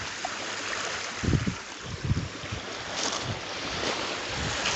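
Waves washing onto the beach, with wind buffeting the microphone in a few low gusts.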